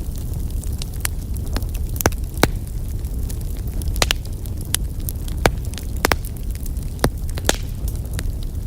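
Wood fire burning in a fireplace: a low steady rumble with irregular sharp crackles and pops from the burning logs, a dozen or so of them, the louder ones about two, four and five and a half seconds in.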